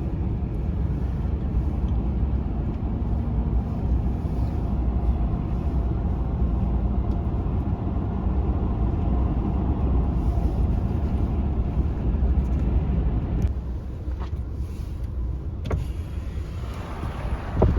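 Steady low rumble of a car driving, which drops off suddenly about three-quarters of the way through, followed by a few light clicks.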